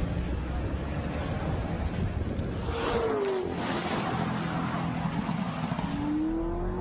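2009 Corvette ZR1's supercharged 6.2-litre V8 accelerating away from a standing start on a test track; its pitch dips about three seconds in and climbs again near the end.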